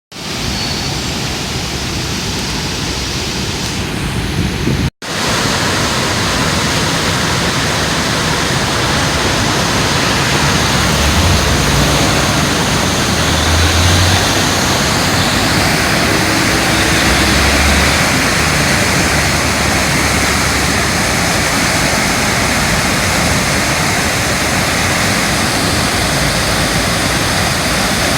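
Floodwater of the Katsura River, swollen by heavy rain, rushing past in a loud, steady wash of noise. The sound drops out for an instant about five seconds in, at a cut in the recording.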